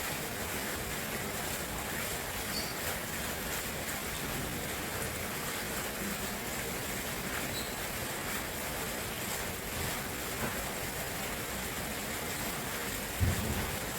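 Stream water flowing steadily, a constant even rush. A short low thump about 13 seconds in.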